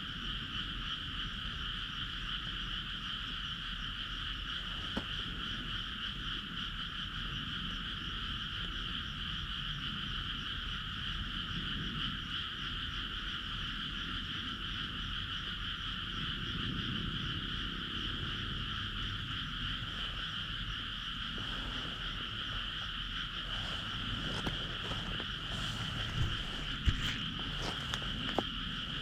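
A steady, dense chorus of frogs calling, unbroken throughout, with a few sharp clicks near the end.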